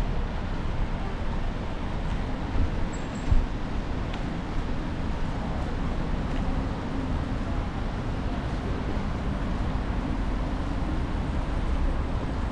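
Steady city street ambience with a low rumble of road traffic, broken by a short knock about three seconds in.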